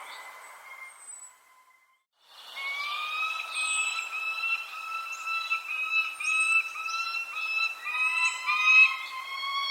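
Birds calling: a steady, shrill layered tone with short high chirps over it. It drops out almost to silence about two seconds in, then starts again louder.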